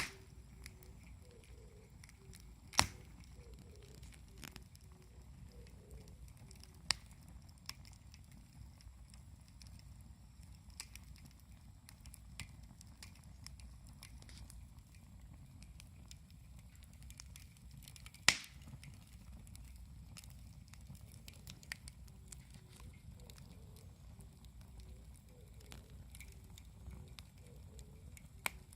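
Wood campfire burning, with a low steady rush and scattered crackles. Two sharp pops stand out, about three seconds in and again near the middle.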